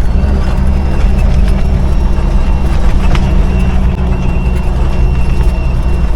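A 5-ton military truck's engine running steadily in low gear while the truck descends a mountain dirt road, the engine holding it back instead of the brakes. Scattered clicks and rattles sound over the engine.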